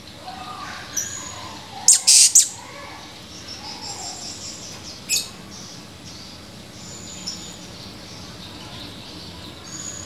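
Blue-crowned hanging parrot (serindit) giving shrill, very high calls: three sharp calls in quick succession about two seconds in and another about five seconds in, with softer high chirping between.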